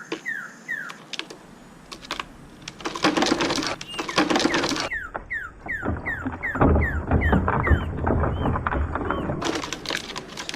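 Short descending whistled bird calls repeated evenly, about two to three a second, over clicking and rustling handling noise, with a low rumble in the second half.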